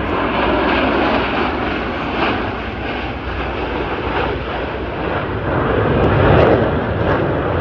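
Aircraft engine noise at an air show, loud and steady, swelling a little near the end.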